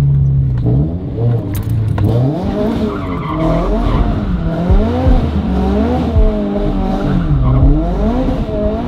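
Car engine revving up and down over and over under hard driving, with tyres squealing as the car slides, heard from inside the cabin.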